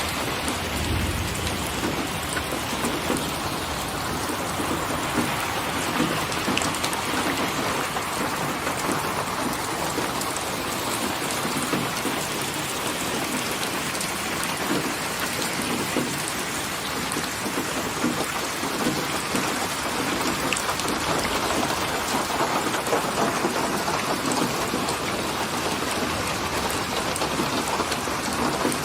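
Steady rain falling in an even, continuous patter.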